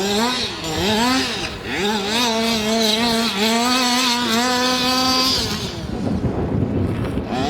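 Zenoah G230RC 23cc two-stroke engine of an FG Marder RC truck revving up twice, then held at high revs for about three seconds before coming off the throttle about five and a half seconds in.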